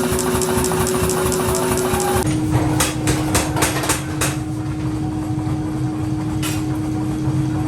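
Workshop machinery running with a steady motor hum. A quick run of about six sharp metallic knocks comes roughly three seconds in, and another single knock comes near the end.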